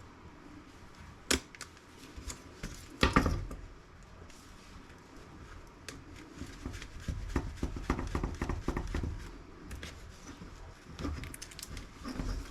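Small plastic and metal laptop parts being handled and set down during disassembly: scattered sharp clicks and knocks, the loudest about three seconds in, then a longer run of clattering and rustling handling noise.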